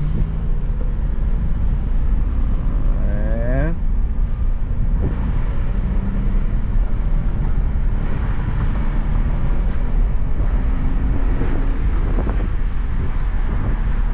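Car driving: a steady, loud low engine and road rumble, with a rising whine that climbs for about a second, about three seconds in, and then cuts off suddenly.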